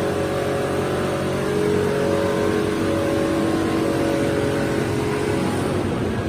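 Motorcycle engine running at steady high revs on a chassis dynamometer, its note fading away near the end.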